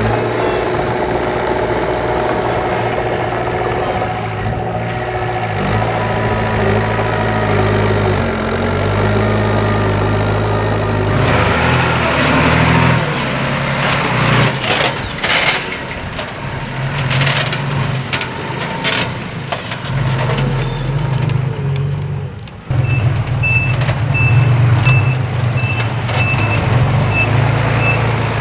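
Heavy diesel engine running, with a stretch of knocks and clatter in the middle. After an abrupt cut about three quarters of the way through, a truck's reversing alarm beeps steadily about twice a second over the engine.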